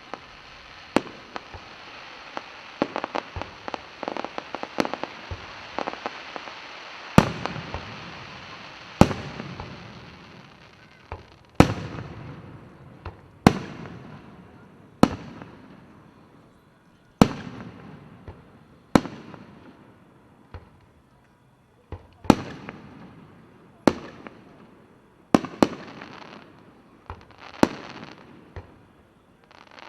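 Fireworks display: shells bursting in sharp bangs every second or two, each trailing off in a rumble. Dense crackling fills the first several seconds.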